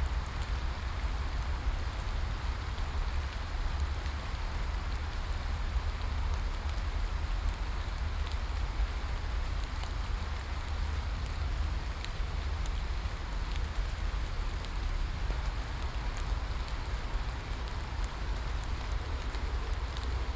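Steady rain falling, an even hiss with scattered drop ticks over a constant low rumble.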